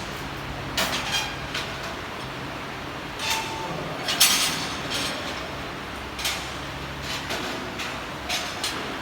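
Scattered knocks and clanks, about half a dozen short sharp hits a second or two apart, over a steady low machinery hum.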